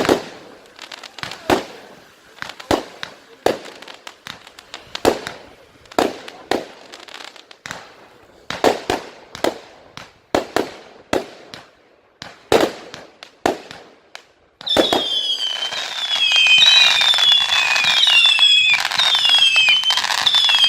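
Firework display: a run of sharp separate bangs, one or two a second, for about fourteen seconds, then suddenly a dense, louder barrage of whistling fireworks, many overlapping whistles each falling in pitch over a steady hiss.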